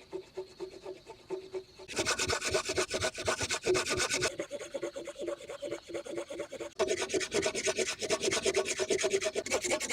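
Rapid rasping, scraping strokes of a hand tool working wood. They are quieter at first, grow loud about two seconds in, ease off, and grow loud again about seven seconds in.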